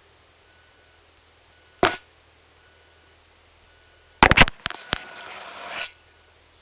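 Aircraft radio through the headset intercom: one sharp click of a transmission keying, then a cluster of clicks and a hiss of static lasting about a second and a half as another transmission opens and closes.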